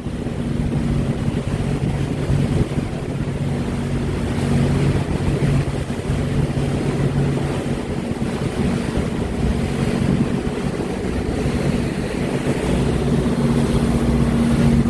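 A motorboat's engine running steadily under way, a constant low drone, with wind buffeting the microphone and water rushing past the hull.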